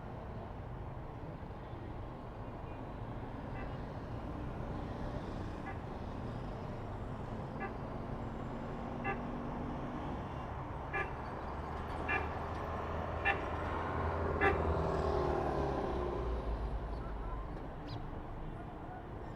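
Street traffic: a steady rumble of vehicles with a series of short car horn toots, roughly one every second or so, getting louder toward the middle, where a heavier vehicle swells past.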